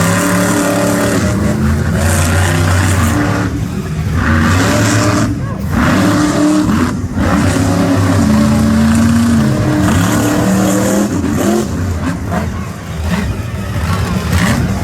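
Monster truck engines revving hard during a side-by-side race, the pitch climbing and falling again and again as the drivers work the throttle, with a few brief lifts off the throttle.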